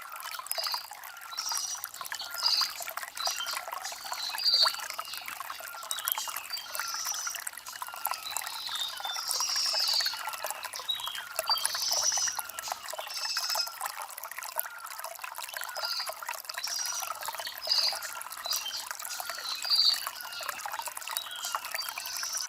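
Shallow stream water trickling and babbling over stones: a steady, busy stream of small gurgles with no low rumble.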